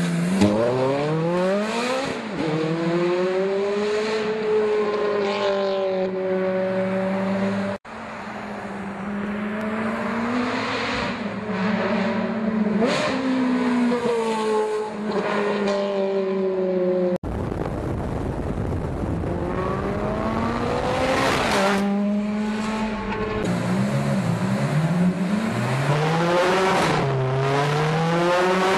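Ferrari F430's V8 through a Fabspeed sport header and valved exhaust, revving and accelerating with the pitch climbing and falling. There are several quick gear changes near the end. The sound breaks off abruptly twice.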